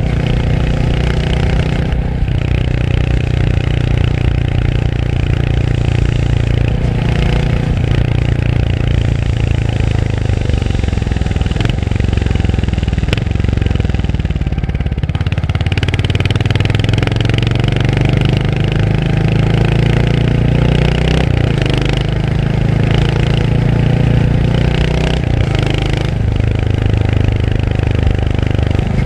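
Royal Enfield Hunter 350's single-cylinder engine running on the move. Its note climbs and drops back with gear changes a few times. About halfway it sinks low as the throttle eases off, then pulls up again.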